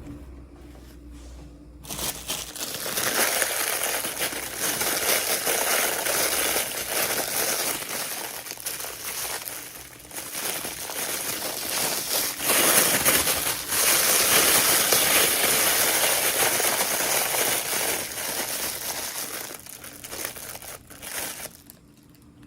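Crinkly packaging being handled and crumpled, crinkling continuously from about two seconds in until just before the end.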